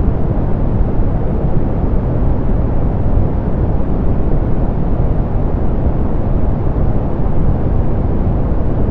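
Steady soft pink noise, a constant even hiss weighted toward the low end and rolled off in the highs, with no changes.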